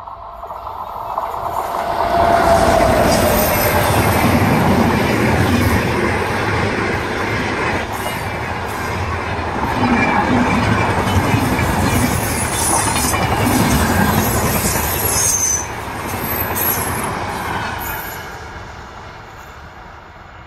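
A train passing on a curve. It grows loud about two seconds in and fades near the end, with a dense rolling rumble of wheels on rail and thin high squeals from the wheels on the curve.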